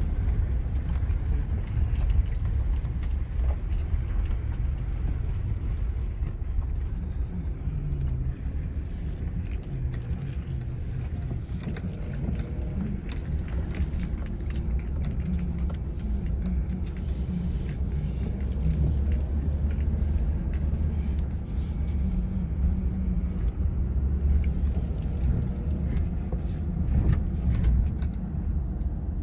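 A car being driven, with a steady low rumble from engine and road and many light clicks and rattles throughout.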